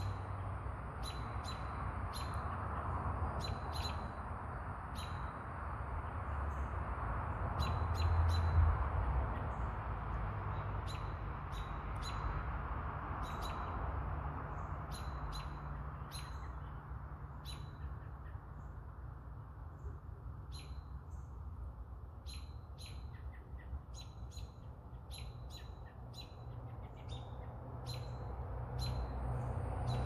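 Short, sharp bird chirps repeated at irregular intervals, over a steady low hum that swells briefly about eight seconds in. A high, steady insect buzz is heard only in the first second and again at the very end.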